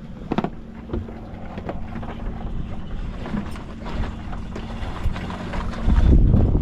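Wind buffeting the microphone aboard a sailboat under sail, with scattered clicks and knocks from deck gear, around the moment the headsail is let out. A heavy gust of wind noise comes near the end.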